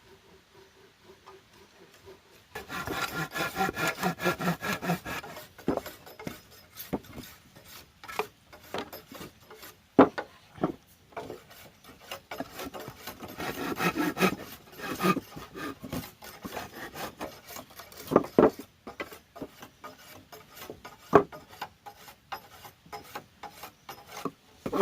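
A hand saw cutting through wood, in quick rasping strokes that come in spells with pauses, broken by a few sharp knocks.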